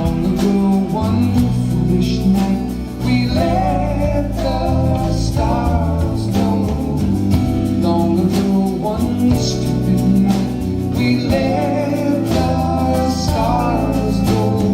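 A rock band playing a song live: a singing voice over guitar, bass and drums.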